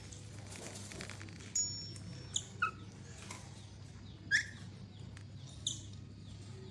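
A parrot giving a few short, scattered chirps and whistles, some falling in pitch, over a low steady hum.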